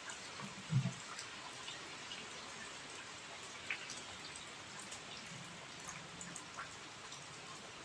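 Steady rain falling, with scattered drops ticking and dripping on nearby surfaces. A short low thump comes just under a second in.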